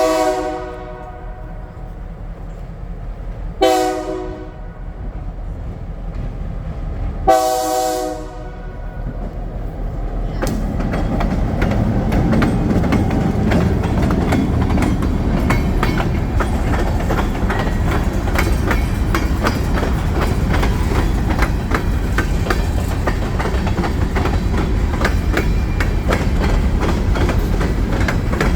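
Diesel freight locomotive's horn sounding its chord, with the end of one blast and then two more, the last the longest. Then, from about ten seconds in, the freight train passes close with a steady rumble and a rapid clickety-clack of wheels over the rail joints.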